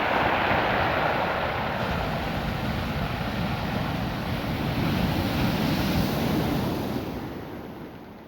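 Ocean surf washing over a beach of small rounded rocks, a dense surging noise that swells and draws back, then dies away near the end.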